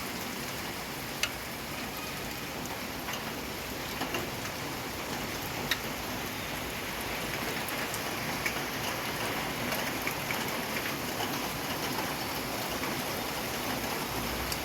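Steady rain falling, with a few louder single drops striking a surface now and then.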